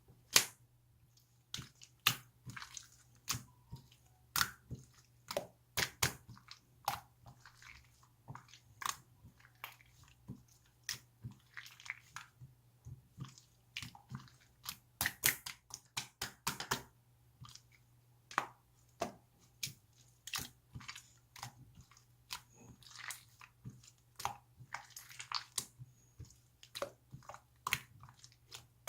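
Close-up irregular crunching and crackling: sharp crisp pops and clicks, one to several a second, with a few soft squishing stretches between them.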